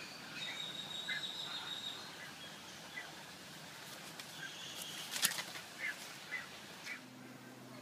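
Birds calling: short scattered chirps and a steady, high whistled note in the first two seconds, with a few sharp clicks about five seconds in.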